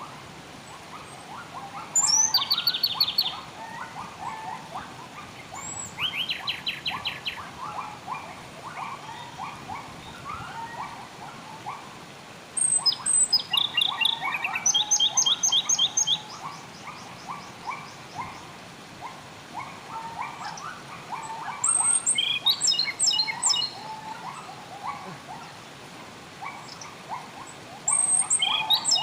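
Wild birds singing: one bird gives loud, high, rapid trills of repeated notes in bouts every few seconds, the longest lasting about three seconds, over a steady chatter of short, lower-pitched calls.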